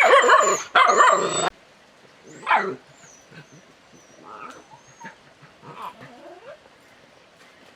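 Loud animal calls for about the first second and a half, then a single falling cry about two and a half seconds in, followed by a few fainter cries.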